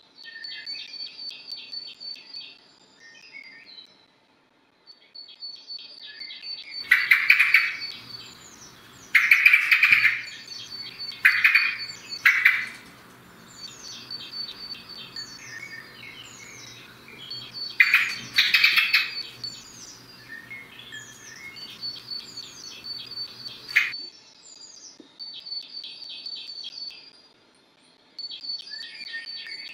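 Songbirds singing: a quick high trill repeated every few seconds among other chirps. Several loud, harsh calls come in the middle stretch, over a faint low hum.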